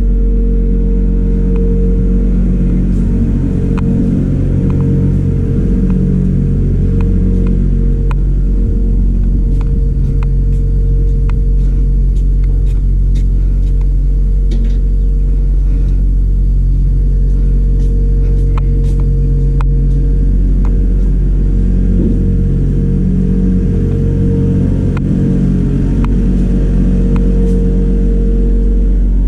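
An electric motor running steadily with a loud, even hum, with faint scattered ticks above it.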